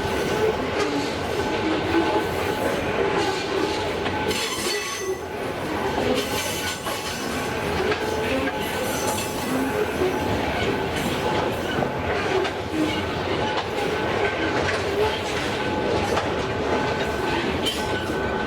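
Freight train rolling past, its wheels running on the rails with a steady stream of clicks and a thin, steady squeal.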